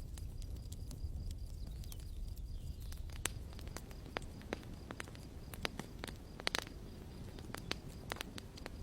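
Campfire crackling: irregular sharp snaps and pops, several bunched together about six and a half seconds in, over a steady low rumble.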